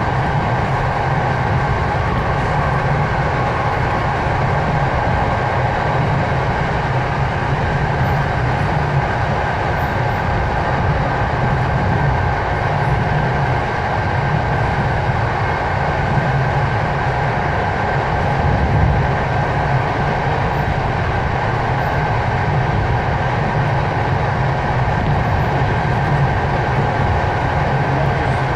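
Passenger train running steadily, heard from on board: a continuous low rumble of the wheels on the rails with a thin, steady high tone over it.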